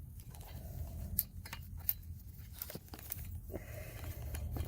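Scattered clicks, taps and rustles of a camera being handled and hung in a new spot, over a steady low rumble.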